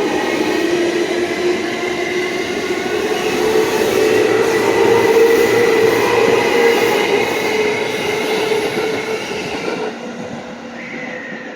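Electric train running at the station platform: a steady motor whine over wheel and rail noise. It grows louder toward the middle and fades near the end.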